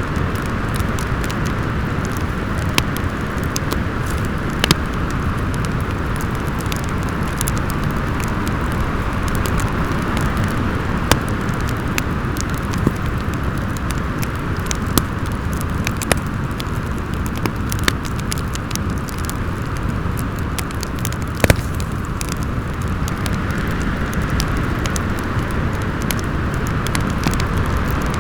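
Storm wind blowing steadily with a deep rumble, its gusty whistle swelling and easing, while a wood fire crackles with scattered sharp pops, the loudest about three-quarters of the way through.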